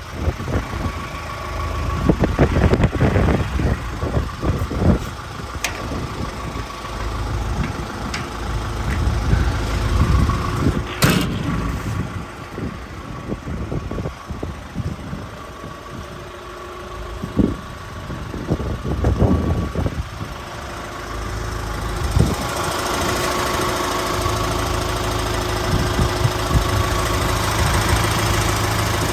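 Volvo EW140D mobile excavator's diesel engine running, with irregular clunks and thumps and a sharp click about 11 seconds in. About 22 seconds in, the sound becomes louder and steadier.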